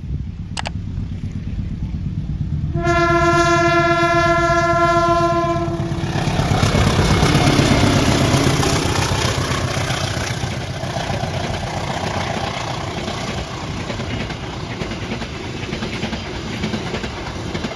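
A train's horn sounds one long, steady blast from about three seconds in to about six seconds, over the low rumble of the approaching locomotive. The train then passes, its wheels and cars making a loud, steady rushing rattle on the rails.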